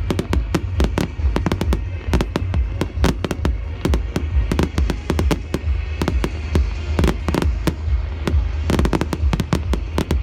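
Fireworks going off: rapid, overlapping cracks and bangs, several a second, over a steady deep rumble.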